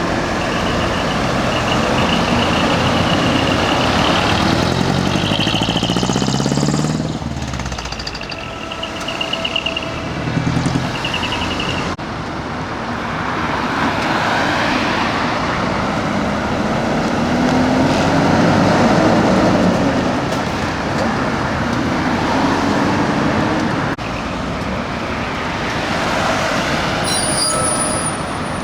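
Decorated heavy trucks (dekotora) driving past one after another, their diesel engines rising and falling in pitch as they pull away and change gear.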